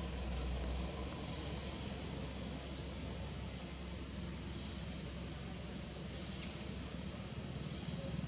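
Steady outdoor background noise with three or four brief, high, rising chirps from an animal. A low hum fades out about a second in.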